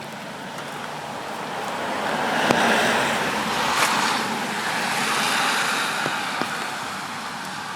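A car passing on a wet road, its tyres hissing as the sound swells over a couple of seconds and then fades away.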